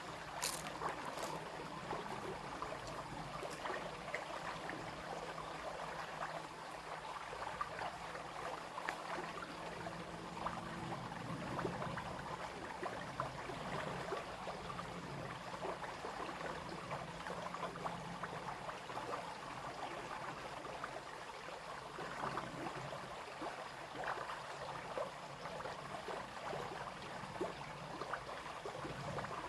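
Small brook babbling, a steady rush of water with many small splashes and trickles. A faint low drone runs under it through the middle.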